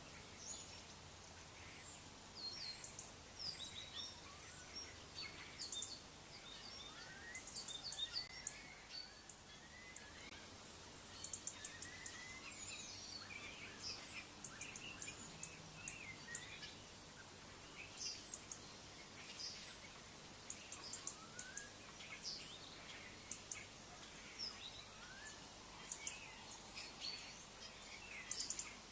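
Small birds chirping and calling, many short notes and quick rising whistles, over a steady background hiss.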